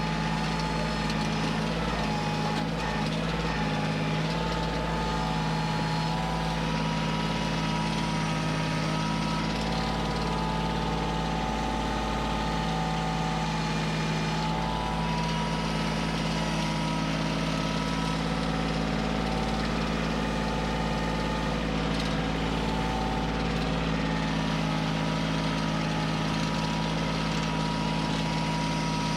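Kioti CK2610 compact tractor's diesel engine running steadily, with no clear revving.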